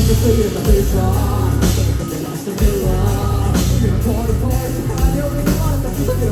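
A rock band playing live, with a singer's melody over drums, bass and guitar.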